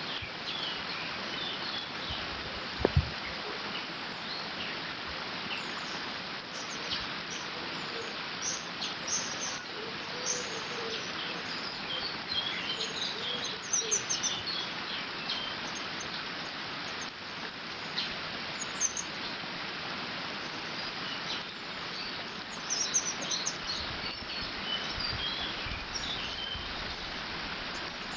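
Water running steadily through a beaver dam as an even rush, with small songbirds chirping and singing throughout. There is a single brief knock about three seconds in.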